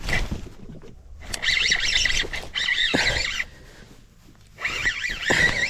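Birds calling in two bursts of high chattering calls, the first about a second in and the second near the end, over a low rumble of wind or handling noise.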